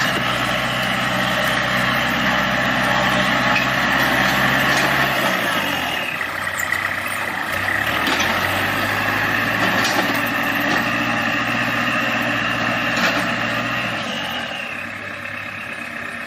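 Tractor engine running under a steady hiss; its revs drop about five seconds in and pick up again a couple of seconds later, then hold steady.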